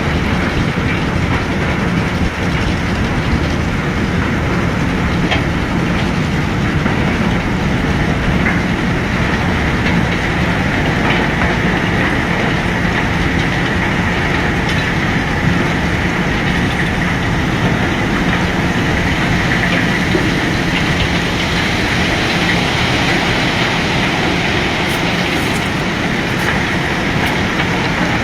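Heavy machinery running: a loud, steady rumble with a rattling clatter and a faint hum, unchanging throughout.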